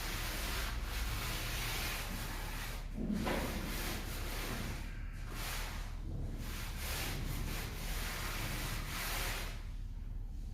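Trowel scraping and rubbing over a mortar floor bed in repeated strokes with short pauses, as the base is screeded to slope.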